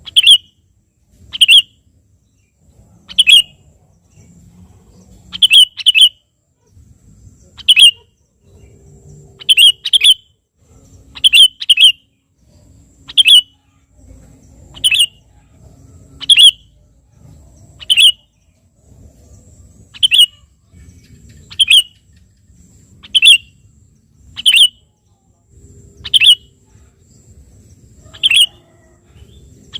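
Sooty-headed bulbul (kutilang) calling over and over: short, sharp chirps, single or in quick pairs, every one and a half to two seconds. It is a lure call meant to provoke rival bulbuls into answering.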